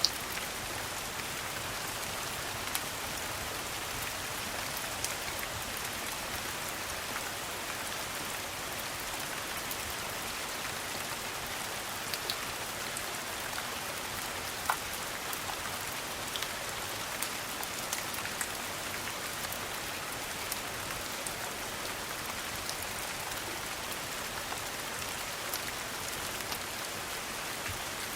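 Steady rain falling, a dense even hiss with occasional sharp clicks and pops scattered through it.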